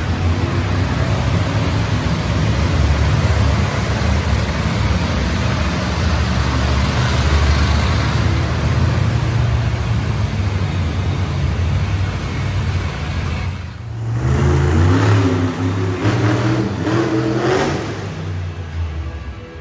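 Monster truck engine running loudly at high revs. About fourteen seconds in, the sound cuts to another engine revving up and down.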